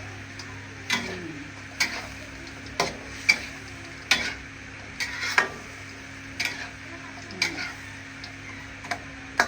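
Metal spatula stirring food frying in a pan: short scrapes and knocks against the pan, roughly once a second, over a steady sizzle and a low hum.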